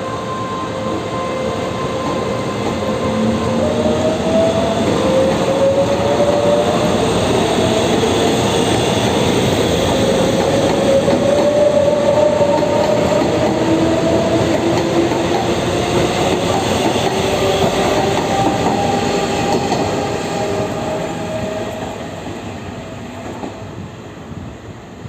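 Electric multiple unit local train pulling away from the platform, its traction motors giving a whine that rises slowly in pitch as it accelerates, over the rumble of wheels on rail. It grows louder, then fades in the last few seconds as it moves off.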